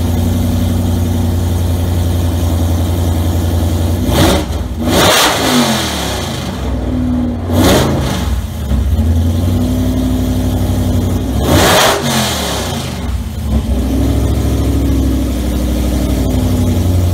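Supercharged 5.2-litre V8 of a 2018 Ford Mustang Cobra Jet drag car idling, its exhaust blipped several times, the pitch jumping up and falling straight back to idle each time.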